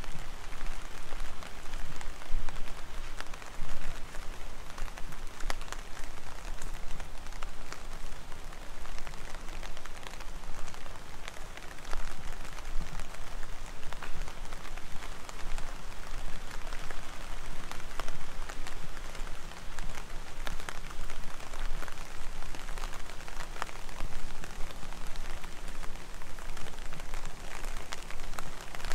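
Steady heavy rain: an even hiss of rain with many sharp, close drop hits scattered all through.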